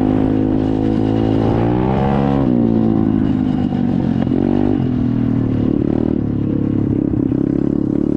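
SSR 125 dirt bike's single-cylinder four-stroke engine running, its pitch rising and falling with the throttle about two seconds in and again around four and a half seconds.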